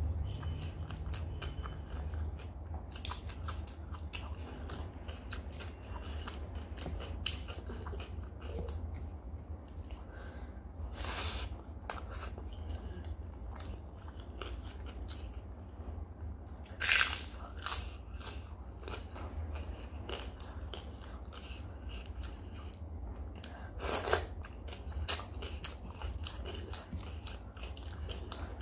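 Close-up eating sounds: chewing mouthfuls of rice and yogurt potato curry eaten by hand, with soft wet clicks of fingers mixing the food. A few louder crunchy bites come through, over a steady low hum.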